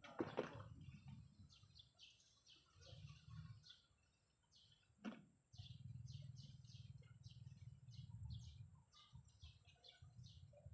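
A small bird chirping over and over in short high notes, faintly, over a low on-off rumble. A knock sounds near the start and a sharper one about five seconds in.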